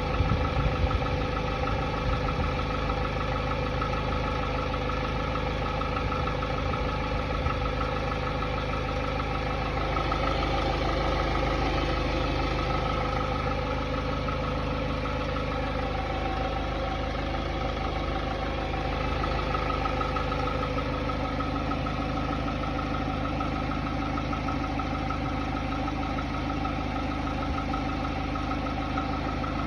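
Hyundai Tiburon's 2.0-litre G4GC four-cylinder engine idling cold with a knocking noise, which the owner suspects could be piston slap. The idle runs steadily, a little louder for a few seconds about ten seconds in.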